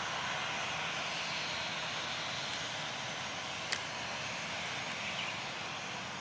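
Jet airliner flying low overhead near the runway, its engine noise a steady rushing sound that slowly fades. A single sharp click sounds a little past halfway.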